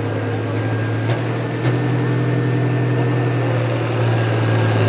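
Farm tractor engine running steadily, slowly growing louder, with a couple of sharp clicks about a second in.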